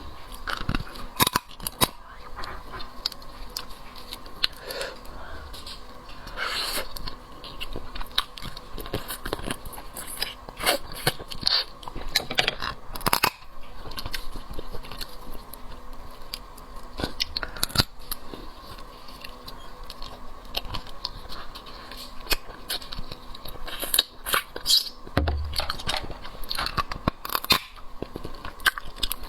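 Mouth-close eating of a crab leg: irregular sharp cracks and crunches of the shell, with chewing between them.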